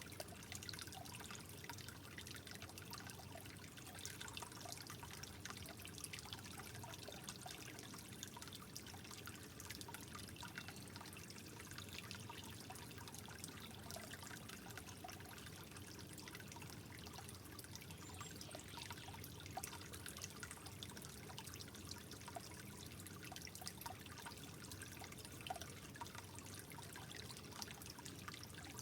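Soft trickling water, a steady gentle flow dotted with many small irregular drips and splashes.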